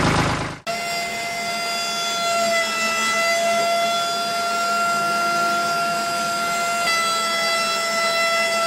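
A steady, high horn-like tone with many overtones, held for about eight seconds. It starts and stops abruptly and cuts out the engine running around it.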